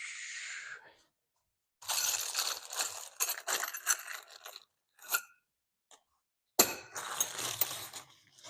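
Packaging crinkling with small clinks of parts being handled, in two crackly bursts: one about two to three seconds long starting near two seconds in, and a shorter one near the end.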